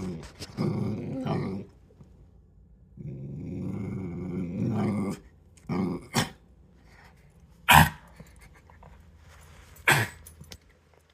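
A dog growling in long rumbles, then several short, sharp barks, the loudest about 8 seconds in and another near 10 seconds.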